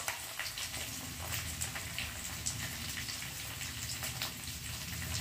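Onions and capsicum frying in mustard oil in a kadhai: a steady low sizzle with scattered small crackles and pops.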